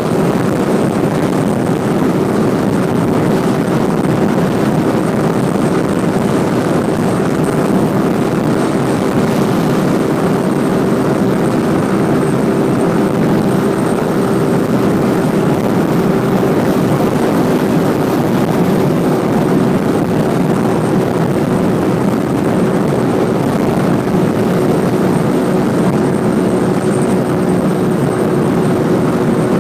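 Motorcycle engine running at a steady speed on the move, a constant hum over a rushing wind noise.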